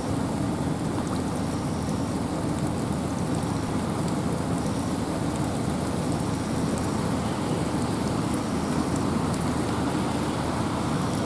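Steady rain and wind in a forest: an even, low rushing hiss with faint scattered drop ticks, no change in strength.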